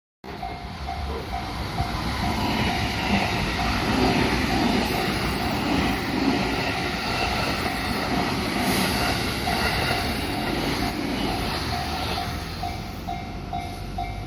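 A JR Kobe Line train passes over a level crossing, its wheels rumbling and clattering on the rails, loudest a few seconds in. The crossing's warning bell dings steadily through it, about three times a second.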